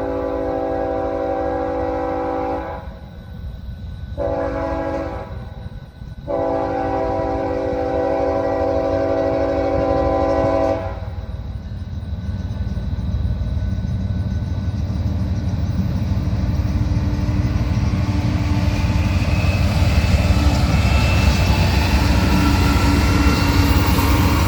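Air horns of two BNSF diesel locomotives sounding a multi-note chord: a long blast ending about two and a half seconds in, one short blast, then another long one. This long–short–long pattern is the close of the grade-crossing signal. The locomotives' low engine rumble and the wheel noise of the loaded gravel train then grow steadily louder as the train approaches and passes.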